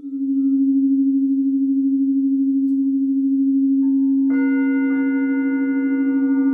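Singing bowl sustaining a steady low tone that wavers gently in loudness. Past halfway, another bowl is struck, adding higher ringing tones on top.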